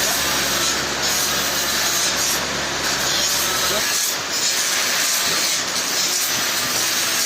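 Sawmill saw cutting through a trembesi log with a loud, steady rasp. A low machine hum under it stops abruptly about halfway through while the cutting noise carries on.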